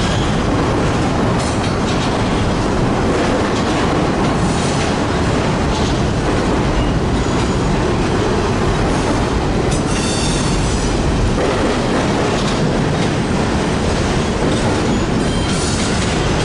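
Freight train passing close by: a steady loud rumble of rolling railcars, with clickety-clack over the rail joints and brief high-pitched wheel squeals now and then.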